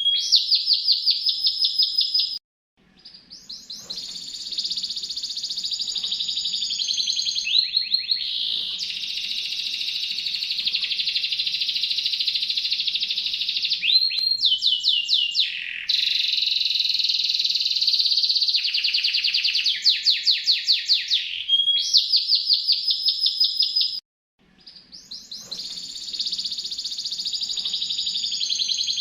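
Canary singing long, rapid trills, one rolling phrase after another at a high pitch. The song cuts off abruptly about two and a half seconds in and again near the end, each time fading back in.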